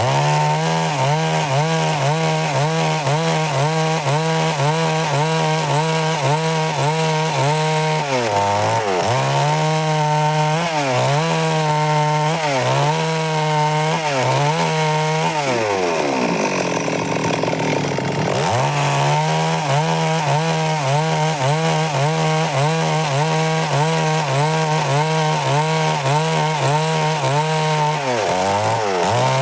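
Stihl MS 382 two-stroke chainsaw at high revs cutting lengthwise through wood. The engine note dips slightly about once a second under load, and sags lower for a couple of seconds near the middle before climbing back up.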